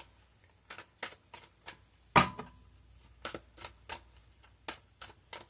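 Tarot cards being shuffled by hand: a run of short card slaps, about three a second, with one louder slap a little past two seconds in.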